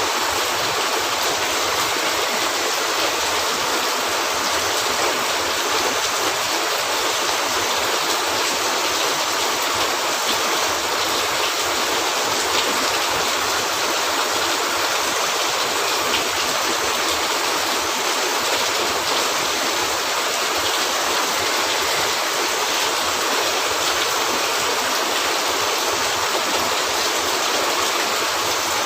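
Steady rain falling on a roof, a dense even hiss, with a few faint clicks.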